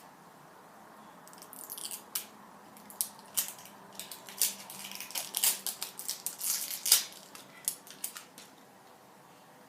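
Irregular crinkling and clicking of plastic packaging and small plastic toy pieces being handled during unpacking, busiest in the middle and dying away near the end.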